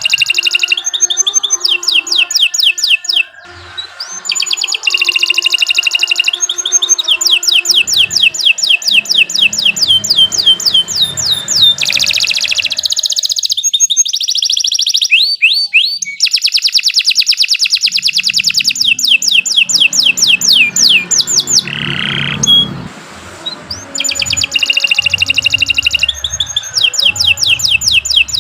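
Canary singing a long, loud song of rapid trills, each made of fast-repeated sweeping notes, one phrase running into the next, with short breaks about three seconds in and again after about twenty-two seconds.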